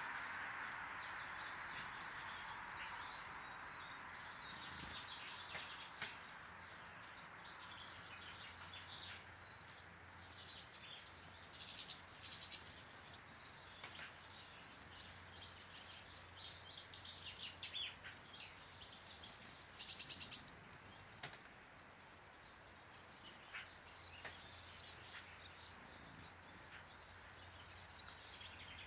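Small garden birds chirping and twittering in short scattered bursts at a bird table, the loudest run about twenty seconds in.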